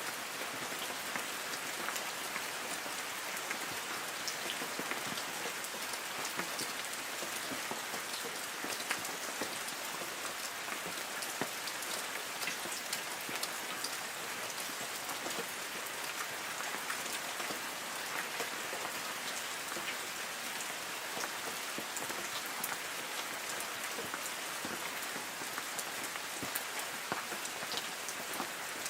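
Light rain falling steadily on forest trees: a constant hiss with many separate drops ticking on leaves.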